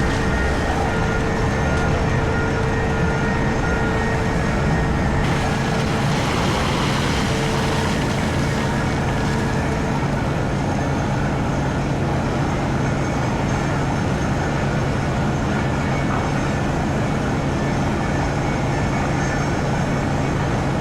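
Komatsu PC4000 hydraulic mining excavator running under load, a steady heavy engine drone with a few steady whine tones, heard from inside the operator's cab. A hissing wash rises about five seconds in and eases off a few seconds later as the machine works.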